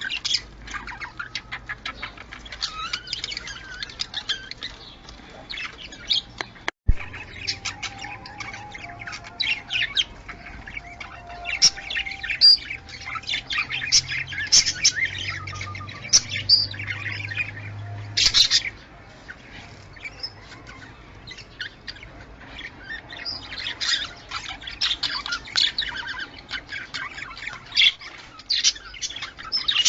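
Budgerigars chattering with rapid, overlapping chirps and squawks. There is a brief dropout in the sound about seven seconds in.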